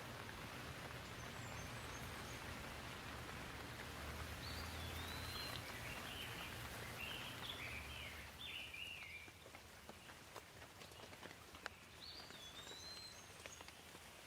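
Steady rain ambience with scattered drips, and a songbird calling: a run of short chirps about four to eight seconds in and another call near the end. The rain hiss is fuller through the first half and lighter after about eight seconds.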